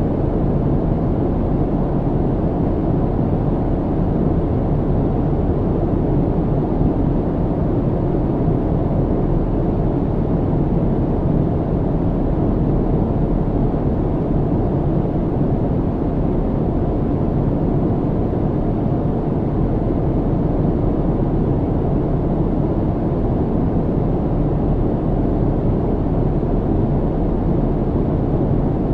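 Steady low rumble of an airliner's cabin in cruise, a constant deep roar of engine and airflow noise with little treble and no changes.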